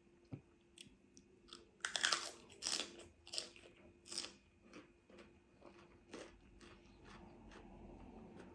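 Mouth crunching and chewing raw celery sticks: a run of sharp, loud crunches about two seconds in, then softer, sparser chewing.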